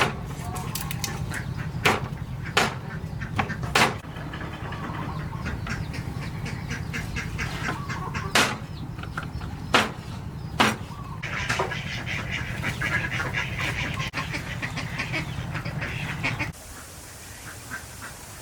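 Fowl calling, with sharp knocks now and then. A steady low hum underneath stops abruptly about sixteen seconds in.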